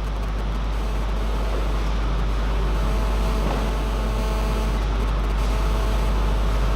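Steady low rumble of room noise in a table tennis hall, with one faint tap of a ping-pong ball about three and a half seconds in.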